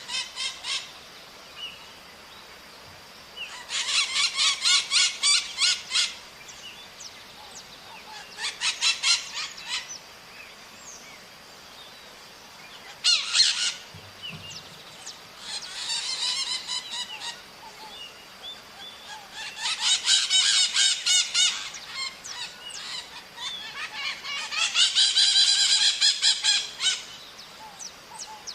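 Maritaca parrots calling. They give bursts of rapid, harsh, repeated screeching notes, each burst lasting one to two seconds, about six times with short pauses between.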